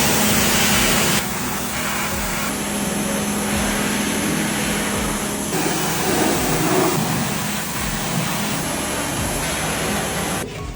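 A motor-driven water sprayer hissing steadily over a low motor hum while the moldy washing machine drum is cleaned. The noise shifts in level abruptly a few times.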